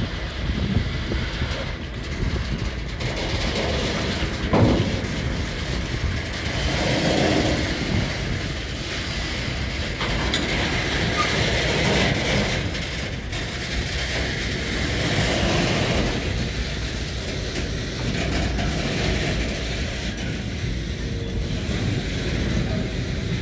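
Freight train of container-carrying flat wagons rolling past, the wheels running on the rails, with one sharp knock about four and a half seconds in.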